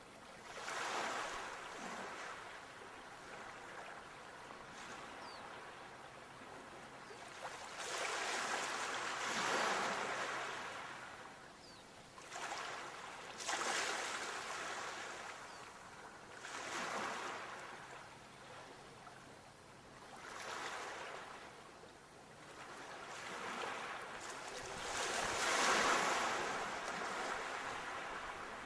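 Sea waves breaking, one after another: about six surges of surf, each swelling up and falling away over a few seconds.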